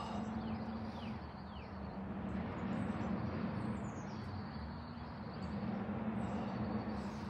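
Small birds chirping outdoors: a few short falling chirps in the first two seconds, then higher whistled sweeps about four and six and a half seconds in. Underneath runs a steady low hum and rumble.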